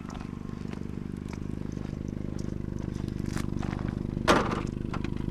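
Car engine idling steadily with a fast, even pulse, getting slightly louder, with a few faint clicks and one short pitched sound about four seconds in.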